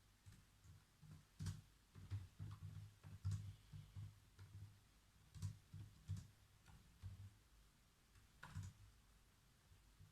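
Typing on a computer keyboard: faint, irregular keystrokes in uneven clusters, each a click with a dull thud, stopping shortly before the end.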